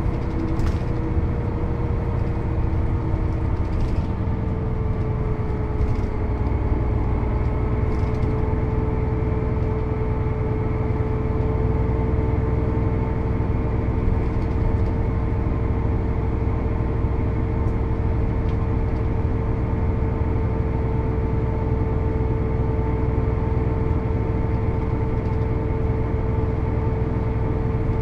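Diesel engine of a 1996 Mercedes-Benz O 407 bus with manual gearbox running steadily under way, a held engine tone over a low rumble that drops slightly a few seconds in and then stays level.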